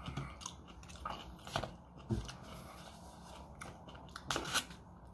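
A person biting and chewing leafy greens, with a few short, soft crunches scattered through the chewing.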